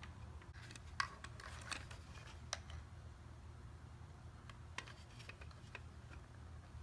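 Scattered light clicks and taps of small plastic parts of an RC tank being handled and taken apart by hand, over a low steady hum.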